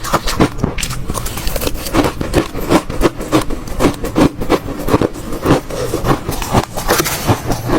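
Hard ice being chewed, a continuous run of irregular crunches, several a second.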